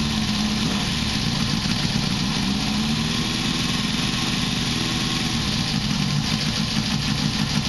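1973 Honda CB500 inline-four engine running through a 4-into-1 exhaust, idling steadily with slight rises and falls in engine speed, on its first run after a rebuild and carburettor float adjustment.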